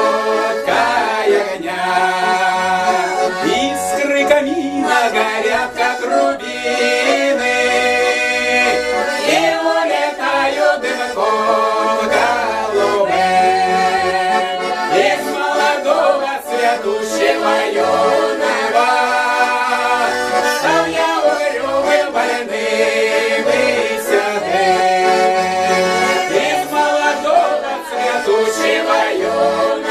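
Accordion playing a melody over sustained chords, an instrumental passage of a Russian folk song.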